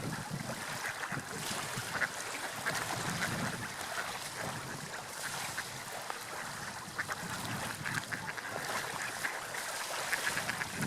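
Water lapping and splashing, a steady wash with many small, quick splashes.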